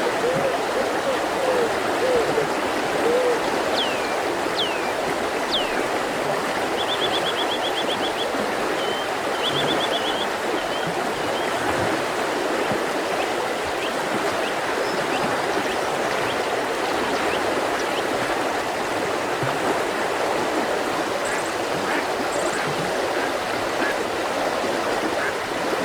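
A mountain river flowing steadily, with birds calling over the rush of water. There are a few quick descending whistles, then a fast trill of high notes a few seconds later, and fainter chirps after that.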